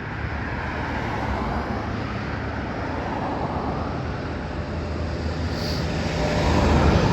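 Road traffic noise: a vehicle going by, its rushing tyre and engine sound swelling to its loudest near the end and then fading.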